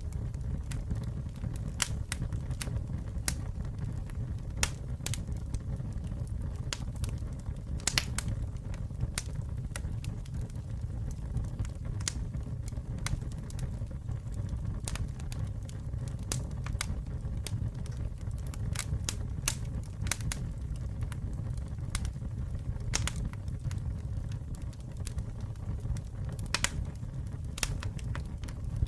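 Campfire burning with a steady low rumble of flames and frequent sharp, irregular crackles and pops from the burning wood.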